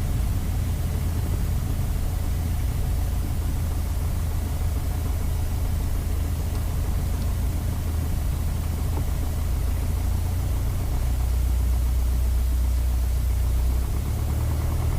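Piper Dakota's six-cylinder Lycoming engine heard from the cockpit, running steadily at low power while the plane rolls along the runway after landing, with a deep hum that drops slightly lower about eleven seconds in.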